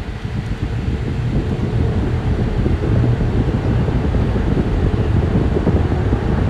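Road and wind noise in the cabin of a 2023 Jeep Wagoneer moving at speed: a steady low rumble that grows slightly louder.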